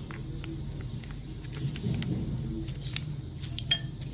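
Mayonnaise being spooned and mixed into a bowl of chopped vegetables and shredded chicken: light clicks of the spoon on the bowl, with one sharper clink near the end, over a steady low hum.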